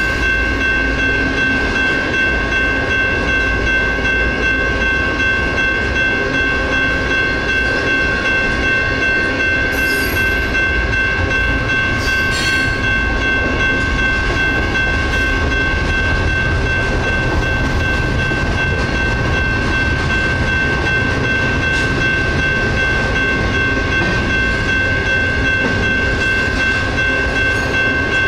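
Railroad crossing bells ring steadily while a Union Pacific double-stack intermodal freight train passes over the crossing with a continuous low rumble of wheels on rail.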